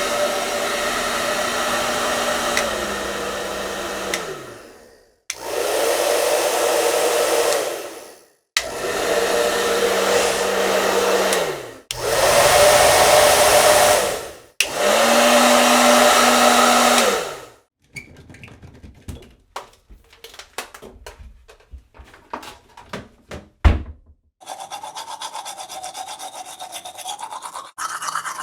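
A small electric motor-driven blower, of the hair-dryer kind, run in five separate bursts of a few seconds each, its hum dropping in pitch as each one winds down. A run of scattered clicks and one sharp knock follows, then a quieter steady hiss with a wavering tone.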